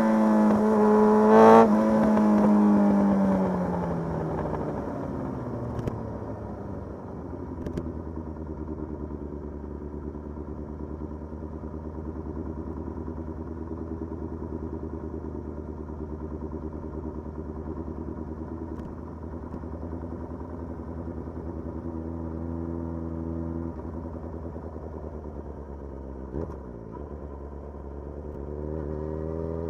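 Motorcycle engine slowing down, with a short rev about a second and a half in, then settling to a steady idle for about twenty seconds. Near the end it revs up again as the bike pulls away.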